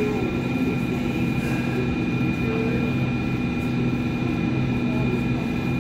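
Hong Kong Light Rail first-generation (Phase I) car running between stops, heard from inside: a steady rumble of wheels on track under a constant electric motor hum and a thin high whine.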